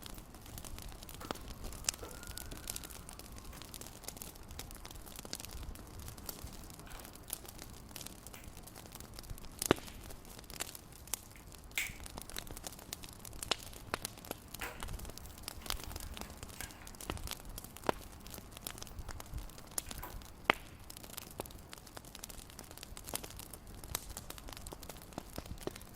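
Wood fire crackling in a fireplace: a steady low hiss with irregular snaps and pops, a few sharper pops standing out.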